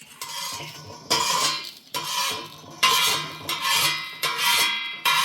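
Repeated harsh scraping strokes, about one a second, each starting sharply and then fading.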